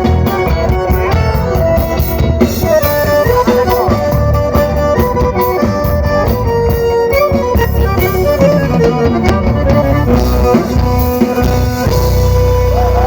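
Live band playing the instrumental ending of a pop song, with no vocals; near the end the moving notes give way to a steadier held sound.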